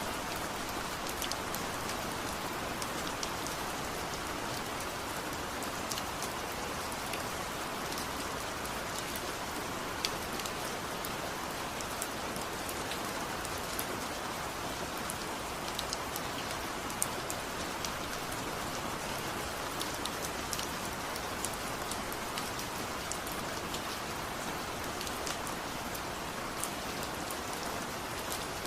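Steady rain falling, an even hiss with scattered sharp drip-like taps.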